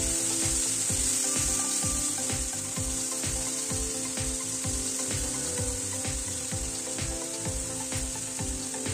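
Chopped tomatoes, onions and masala frying in a kadhai over a medium flame: a steady sizzling hiss, with the scrape of a wooden spatula stirring the mix.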